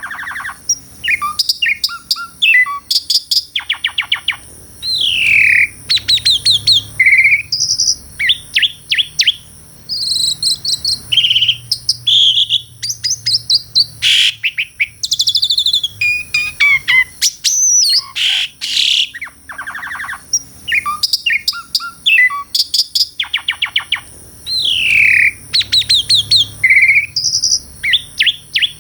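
Asian pied starling (jalak suren) singing a long, varied song of whistled glides, rasps and rapid clicking trills, with hardly a pause, over a steady high-pitched drone.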